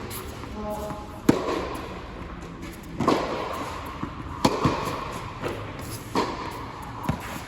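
Tennis ball struck back and forth by racquets in a rally, a sharp hit about every one and a half seconds with a ball bounce on the court between some of them. A brief shoe squeak on the court just before the first hit.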